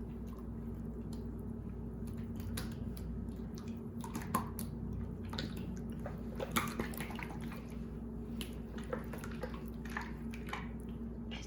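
Wet, goopy slime being squeezed and stretched by hand, making irregular squelching clicks and pops, busier from about four seconds in.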